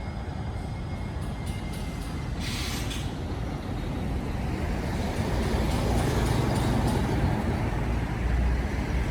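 Highway traffic with heavy trucks running past: a steady low rumble that grows louder in the second half as a vehicle comes close. There is a short hiss of air about two and a half seconds in.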